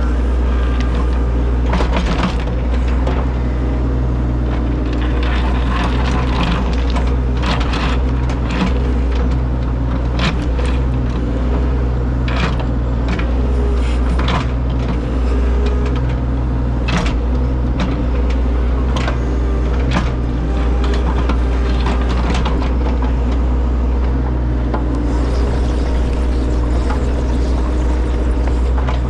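Excavator's diesel engine running steadily under load, with repeated knocks and scrapes scattered throughout as the machine works.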